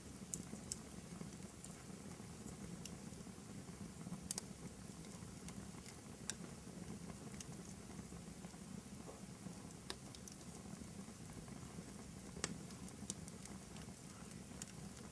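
Wood fire burning in a fireplace: a faint steady rustle of the flames with scattered sharp crackles and pops, the loudest pop about twelve seconds in.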